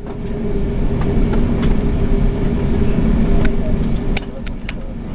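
Airbus A380 cabin noise inside the upper deck: a steady low rumble with a steady hum that fades out late on, and a few sharp clicks in the last second or so.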